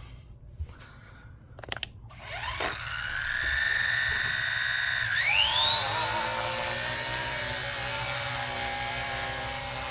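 Electric motors of an RC ERA 1:48 scale Huey micro RC helicopter spooling up for takeoff under load: a few clicks near two seconds in, then a whine that rises in pitch, climbs sharply again about five seconds in and settles into a steady high whine.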